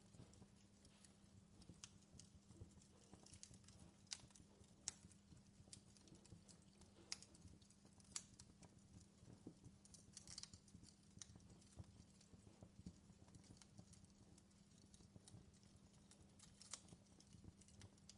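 Faint wood campfire crackling, with irregular sharp pops and snaps from the burning wood, several louder pops among many small ones.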